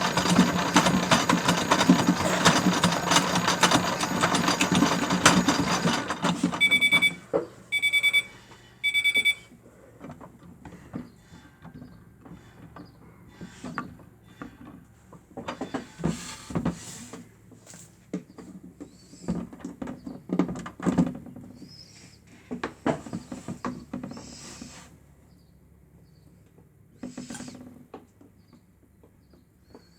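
Miele W1 toy washing machine's small motor running loudly, then cutting out about six seconds in. Three short electronic beeps follow a second apart, the machine signalling the end of its cycle. After them come scattered light clicks and knocks.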